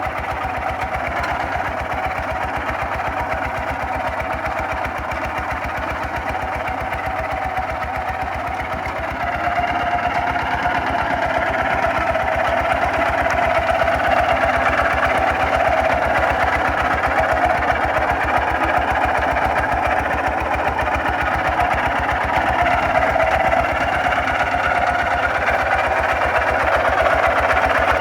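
Kubota RT140 DI single-cylinder diesel engine of a walking tractor running steadily with a rapid, even knocking beat; it gets louder about nine seconds in.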